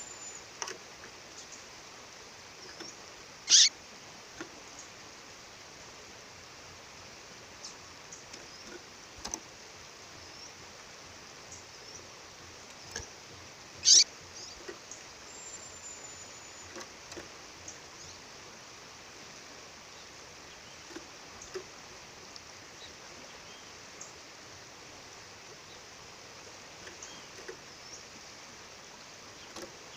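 A female songbird calling: short, sharp chirps, two loud ones about 4 and 14 seconds in, with fainter chirps and a thin high whistle between. Behind them runs the steady rush of a waterfall.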